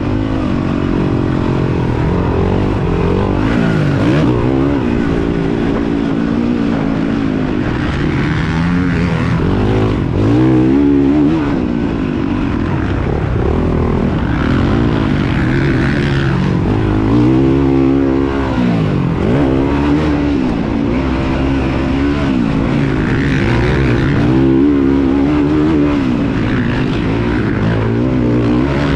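Motocross bike engines racing, the revs climbing and dropping again and again every few seconds.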